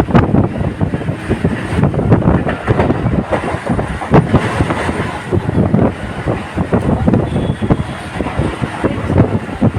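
Local passenger train running: the carriage clattering and rattling in quick, irregular knocks, with wind buffeting the microphone.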